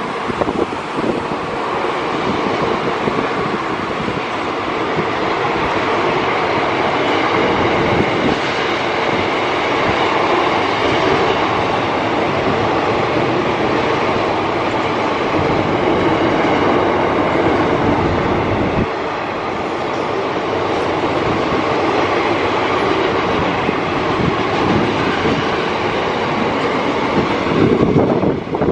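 A long freight train's wagons, boxcars and then container flat wagons, rolling past steadily, their wheels clacking over the rail joints.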